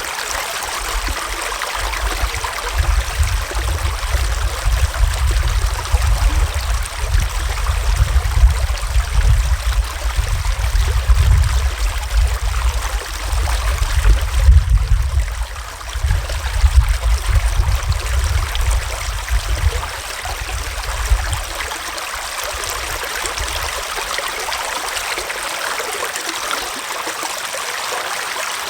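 A forest stream flowing steadily, a continuous rush of running water. Under it, from about two seconds in until about twenty-one seconds in, there is a low, uneven rumble that comes and goes in gusts.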